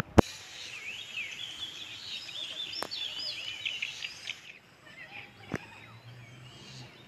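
Several birds chirping and twittering in quick, varied whistled notes for about four seconds, then fading to faint outdoor background. A single sharp click sounds just after the start.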